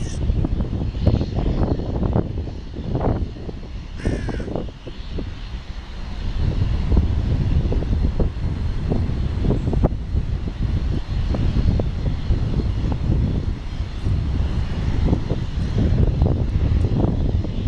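Jet airliner engines running as a plane passes the airfield, with strong gusty wind buffeting the microphone in uneven low rumbles.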